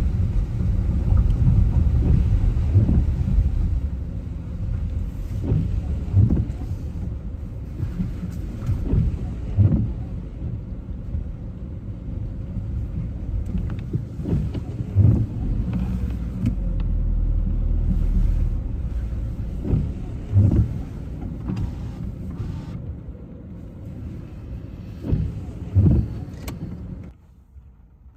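Car driving on wet streets: a steady low road and tyre rumble with scattered short thumps, dropping away sharply about a second before the end.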